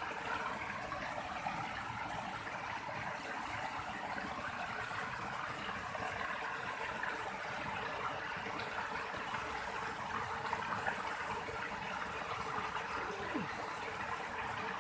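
Steady rush of water flowing in a small river or stream.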